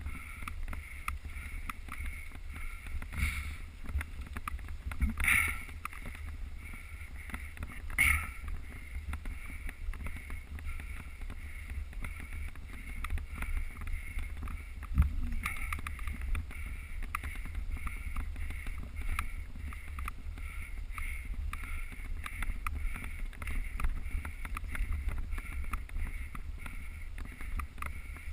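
Mountain bike ridden off-road, heard through its GoPro: a steady rumble of tyres and wind on the microphone, with constant small clicks and four louder knocks from bumps in the trail.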